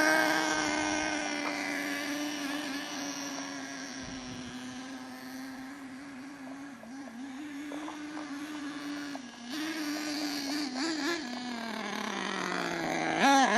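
Small nitro engine of an HPI Savage RC monster truck running at speed with a steady high pitch. It fades as the truck moves away and grows louder again in the second half, and near the end the pitch sags before it revs back up. The owner judges its high-speed mixture still a little rich.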